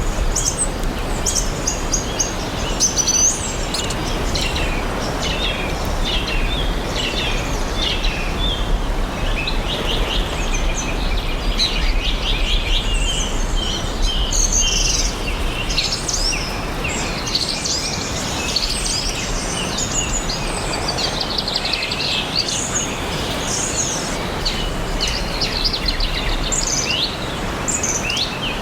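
Several songbirds chirping and singing together in a dense chorus of short calls and quick trills, over a steady low background rumble.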